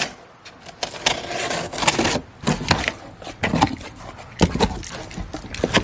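Cardboard box of brake parts being opened and unpacked: irregular scrapes, rustles and knocks as the packaging is handled.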